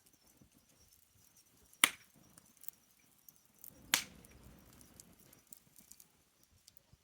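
Burning wood crackling in a campfire, with scattered small snaps and two loud sharp pops about two seconds apart.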